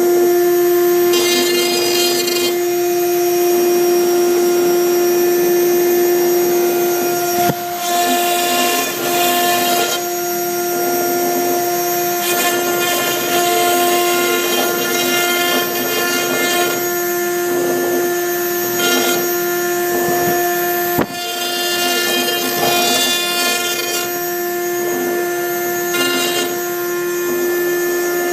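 CNC router's spindle running with a steady high whine while a V-bit engraves MDF, with the stepper motors' buzzing tones changing every few seconds as the gantry moves from stroke to stroke. There are two brief dips, about seven and a half and twenty-one seconds in.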